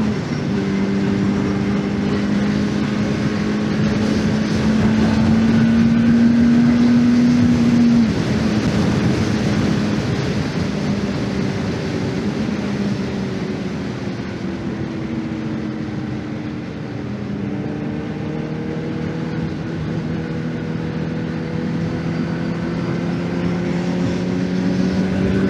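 2024 Honda CBR600RR's inline-four engine running on the move. Its pitch climbs slowly, drops suddenly about a third of the way in, sags further, then climbs again toward the end, over a steady rush of wind and road noise.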